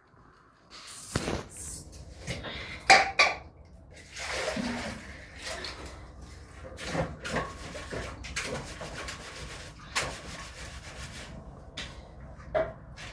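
Objects being handled: irregular knocks, clatters and rubbing, with the sharpest knocks about three seconds in and again about ten seconds in.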